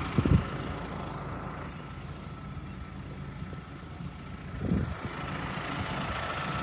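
Farm tractor engine running steadily with a low hum, with two brief low bumps, one just after the start and one just before five seconds in.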